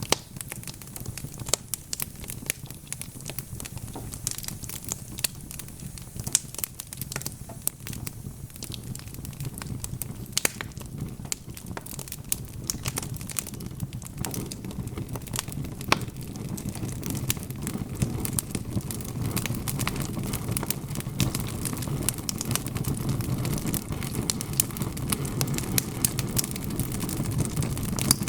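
Wood fire crackling, with frequent sharp pops over a low steady hiss and rumble of flames. The low flame noise grows louder from about halfway through.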